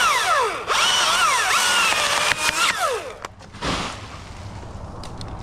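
Chainsaw cutting into a fir, revving hard with its pitch sagging and recovering as the chain bites into the wood. It drops off about three seconds in, once the throttle is released.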